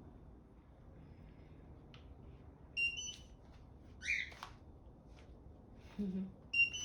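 Short electronic chirp from a Bird One electric scooter, two stepped tones rising in pitch, heard twice about four seconds apart as the charger is connected. A brief squeak comes in between.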